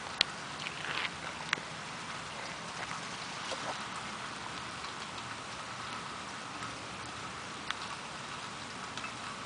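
Steady rain falling, with a few sharp ticks of drops landing close by, the loudest just after the start.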